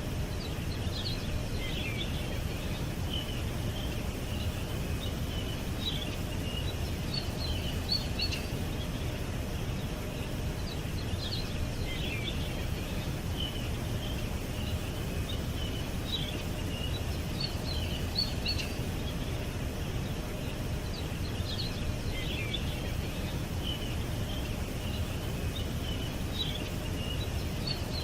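Small songbirds chirping and twittering in short, high phrases over a steady low rumble of background noise. The same run of chirps comes back about every ten seconds.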